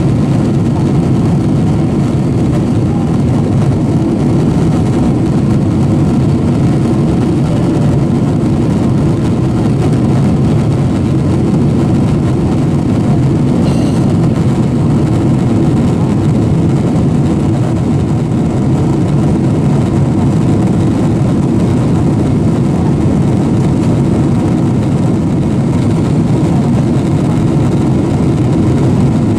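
Steady cabin noise of a Boeing 767-400 airliner in flight: jet engines and airflow make an even, low noise that holds constant.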